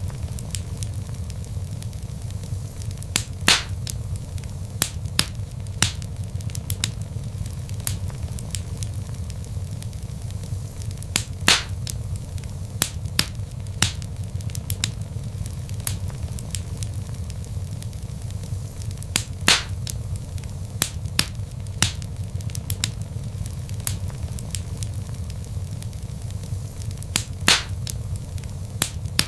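Log fire crackling, with a steady low rumble and frequent sharp pops; four much louder pops come evenly, about eight seconds apart.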